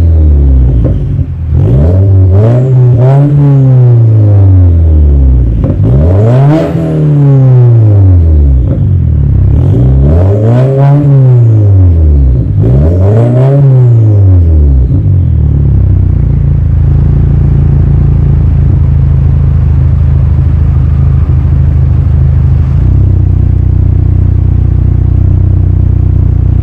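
Subaru flat-four engine through a VDS NTP aftermarket catback exhaust, blipped up and let fall back four times in a row. After the last rev it settles into a steady, low idle.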